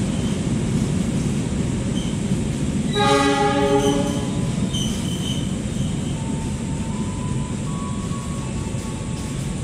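Argo Semeru passenger train's stainless-steel carriages rolling along the platform with a steady low rumble. A short horn blast sounds about three seconds in, with a few faint high-pitched squeals from the running gear.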